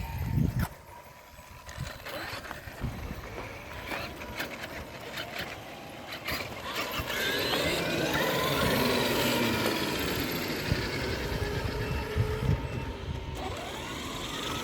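Electric RC trucks running, their motors whining in pitches that rise and fall with the throttle, louder from about seven seconds in, with a few knocks and clicks before that.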